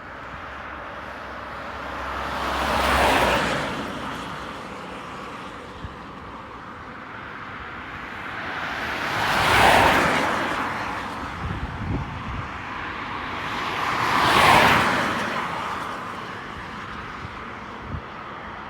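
Road traffic: three cars pass by close, one after another a few seconds apart, each swelling in tyre and engine noise and then fading.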